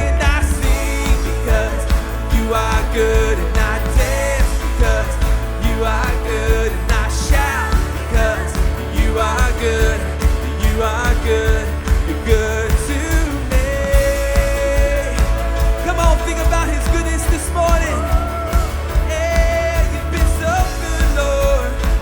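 Live worship band playing a pop-rock song with a steady drum beat, heavy bass, guitars and keyboards, a melody line winding above.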